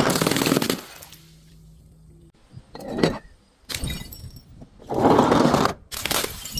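Glass bottles being crushed and shattering: a long loud crunch of breaking glass at the start and another about five seconds in, with sharp single cracks and smaller clinks between them.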